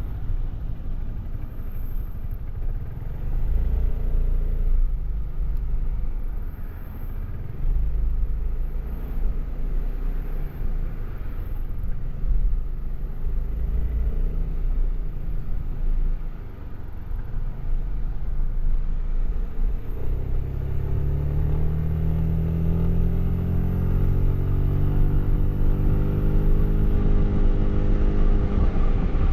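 Suzuki Burgman 400 maxi-scooter's single-cylinder engine through its stock exhaust, running with a low rumble while riding. About two-thirds of the way through it accelerates, its pitch rising and then holding steady.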